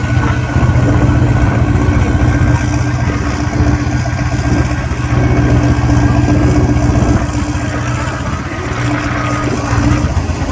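Tractor-pulling tractor engine idling loud and steady.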